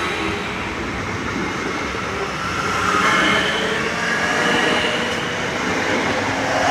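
Suburban passenger train running past on the rails, a steady rumble of wheels and running gear with faint high whining tones coming and going over it.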